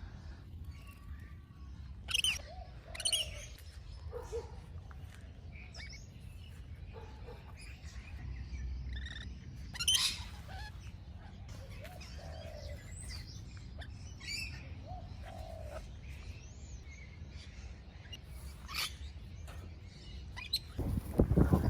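Parrots calling with short chirps and squawks, a few louder calls standing out, over a low steady outdoor rumble.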